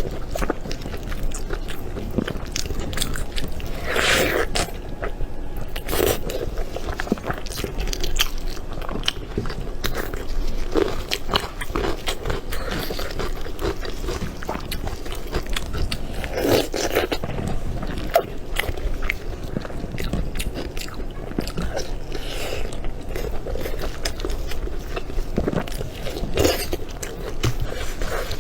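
A person biting and chewing food: a steady run of small crunches and clicks, with louder bites every few seconds.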